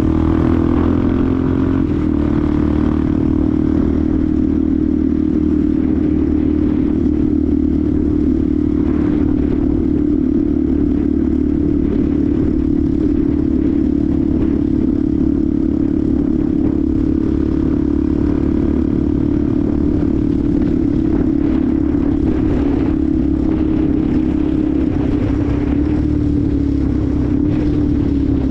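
Benelli TNT 125's single-cylinder engine running at steady revs while riding, dipping slightly in pitch near the end as the throttle eases.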